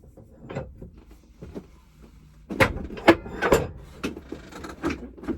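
Knocks and clatter of metal coin-ring tools, a former being pressed down through a barrel to push the ring out. There are a couple of light knocks early, then a cluster of louder knocks from about halfway through.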